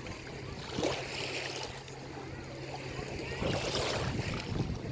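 Small sea waves washing on a beach, swelling about a second in and again near the end, over a steady low hum.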